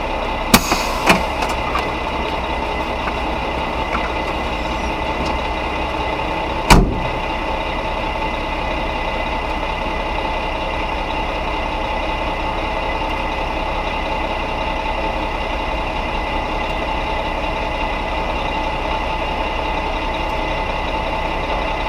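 Mack RB concrete mixer truck's diesel engine running steadily, heard from a dashcam in the cab, with a couple of sharp knocks about half a second and a second in and a louder bang around seven seconds in.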